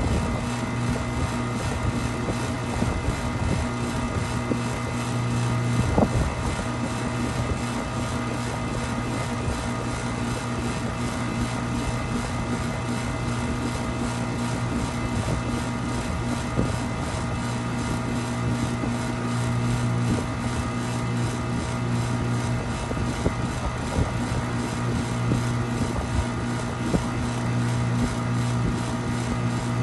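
Steady mechanical drone of a running machine, a constant low hum with a sharp click about six seconds in.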